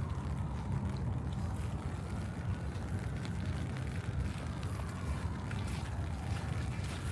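Low, steady rumble of city street traffic, with an emergency-vehicle siren wailing faintly in the distance, its pitch slowly falling and rising.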